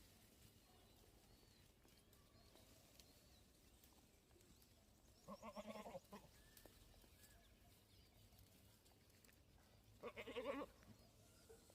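Goat bleating twice, about five seconds apart, each call short and quavering.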